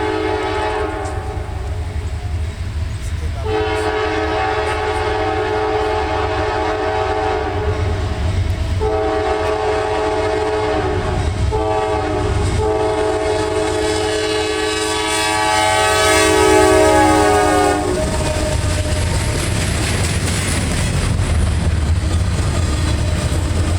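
CSX CW44AC diesel locomotive's multi-chime air horn blowing the grade-crossing signal (long, long, short, long), growing louder as it approaches. After the last blast ends, the low rumble of the locomotive and its wheels running past.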